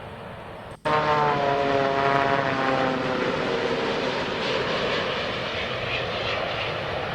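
Boeing 787 passing low on approach with its ram air turbine deployed: a whine of several tones falling steadily in pitch as it goes by, over a steady rush of engine and air noise. It cuts in abruptly about a second in.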